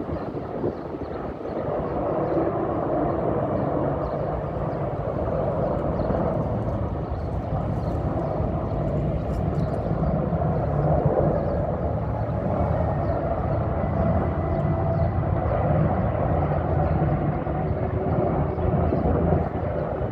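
Military helicopters, Apaches and a Black Hawk, passing in flight: a steady drone of rotors and turbine engines.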